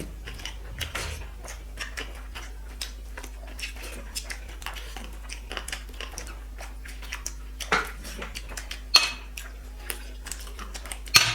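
Dishes and a plate clinking and tapping during a meal, with many small clicks scattered throughout. There are louder knocks about eight and nine seconds in and again near the end.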